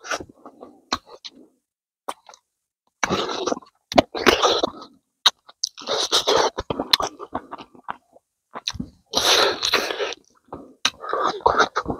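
Close-miked eating: a man chewing rabbit meat and rice with his mouth open, smacking his lips and sucking his fingers, in a run of short, wet bursts with small clicks between them.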